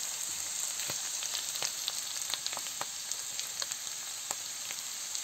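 Butter mushrooms (slippery jacks) and grated onion frying in sunflower oil and freshly added butter in a pan: a steady hiss with many small scattered crackles.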